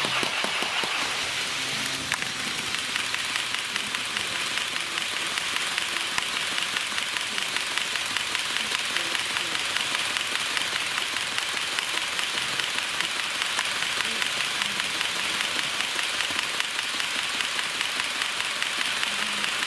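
Wheels of an HO-scale model freight train of two-axle Wam 80000 boxcars clicking over the rail joints, a dense, steady patter of small clicks with a regular pulse as the wagons roll by.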